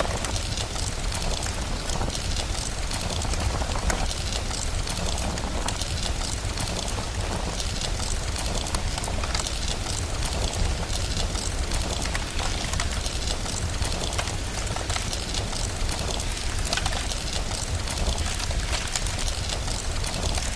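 Steady rain with a fire crackling over it, over a steady low rumble.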